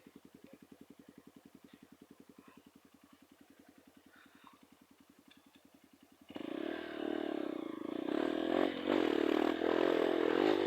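Trail motorcycle engine idling quietly with an even pulse. About six seconds in, it is suddenly revved hard and keeps running loud under throttle.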